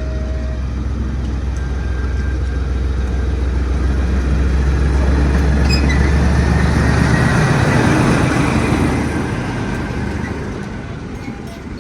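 A train running past: a steady low drone, with its noise building to its loudest about eight seconds in, then fading away.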